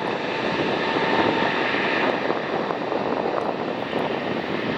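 An Airbus A320neo's CFM LEAP-1A turbofans at takeoff thrust during the takeoff roll: a steady jet rush with a high whine.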